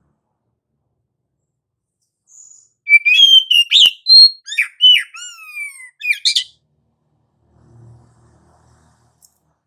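Oriental magpie-robin singing a rapid phrase of varied whistles and chirps with several falling slurred notes, starting about two seconds in and lasting about four seconds. A faint low hum follows near the end.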